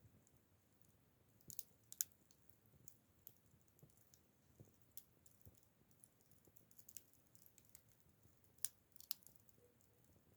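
Acacia (black locust) firewood burning, crackling faintly with scattered sharp pops. The loudest pops come about two seconds in and near the end.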